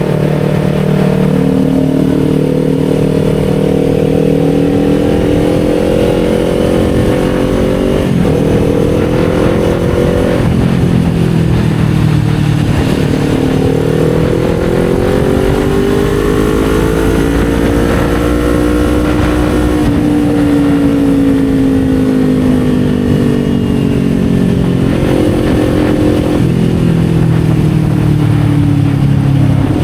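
Kawasaki Z400's parallel-twin engine under way, heard from the rider's seat: its pitch climbs and drops suddenly twice about eight and ten seconds in as it shifts up, climbs again to a peak, then falls as the rider eases off, with more gear changes near the end.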